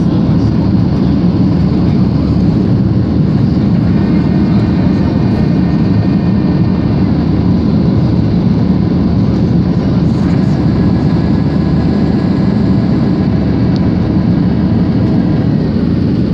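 Steady engine and rushing-air noise inside the passenger cabin of a Gol Boeing 737 jet airliner after takeoff, with a faint steady whine over the low drone.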